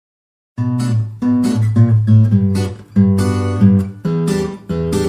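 Background music: strummed acoustic guitar chords, starting about half a second in.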